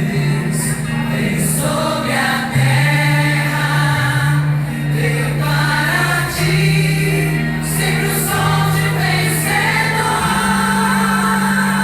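A choir singing a gospel worship song with instrumental backing, over sustained bass notes that change every couple of seconds.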